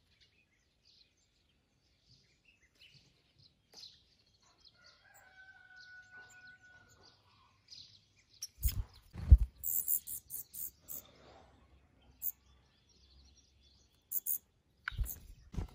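Birds calling faintly, including one long held call about five seconds in. From about nine seconds in come several loud thumps with crackling hiss, and two more thumps near the end.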